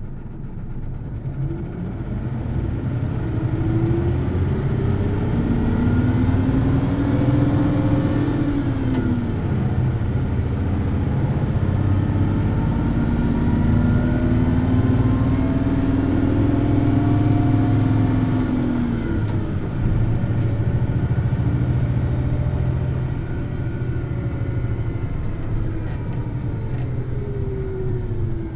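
Hino Blue Ribbon City Hybrid bus pulling away and accelerating, its engine revving high: the engine note climbs in pitch, drops back about 9 s and 19 s in as it shifts, and climbs again. A faint high whine rises and falls along with it.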